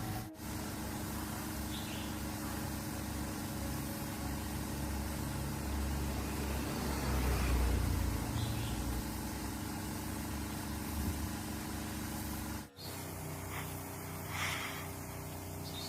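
A motor running with a steady low hum; the sound drops out abruptly twice.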